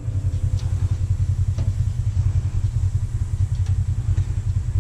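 A steady low mechanical rumble, with a couple of faint clicks.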